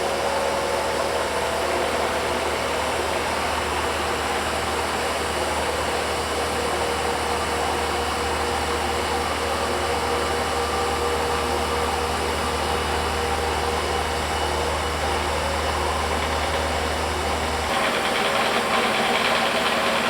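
ProtoTrak CNC mill's spindle running with a high-speed-steel roughing end mill cutting a bore in aluminum, a steady machining noise with a steady mid-pitched tone. A few seconds before the end the low hum drops away and the cutting noise turns brighter.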